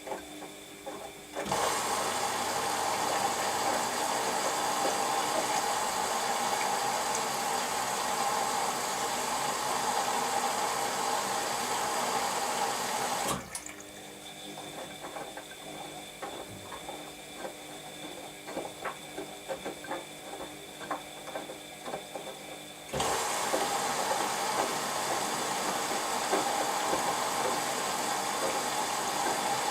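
Washing machine taking in water: the fill water rushes in with a steady hiss, cuts off about 13 seconds in, leaving a quieter stretch of faint clicks, then starts again about ten seconds later.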